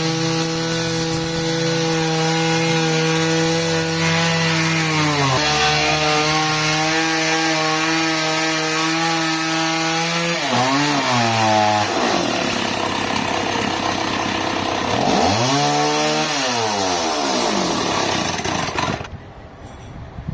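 Petrol-engine saw cutting a trembesi log: the engine holds a steady high pitch, steps down slightly about five seconds in, then sags and recovers twice under load, with rougher cutting noise, before it cuts off suddenly near the end.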